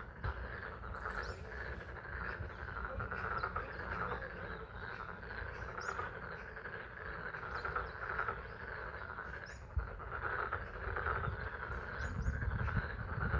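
A chorus of frogs calling at a pond, many overlapping calls in a steady pulsing din, with spring rain falling. Brief high chirps and a low rumble sit underneath, and the rumble grows stronger near the end.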